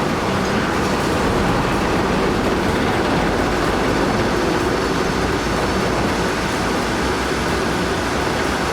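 Heavy machinery running: a steady, dense mechanical noise with no breaks.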